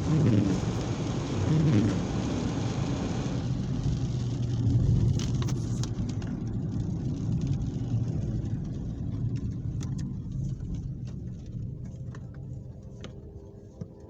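A road vehicle's engine hum and tyre hiss on wet pavement, loudest at first and slowly fading as it moves away. The hiss drops off after about three seconds.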